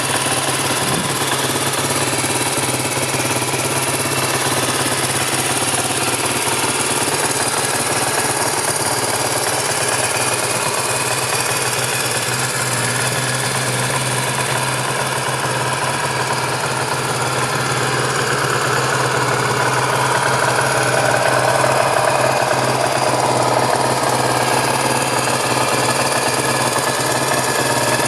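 Suzuki DR350's single-cylinder four-stroke engine running steadily at a low, even speed, rising slightly in level for a few seconds about two-thirds of the way through.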